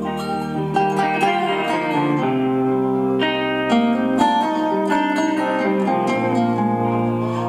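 Instrumental break in a song: guitars playing sustained chords with plucked notes over them, without singing.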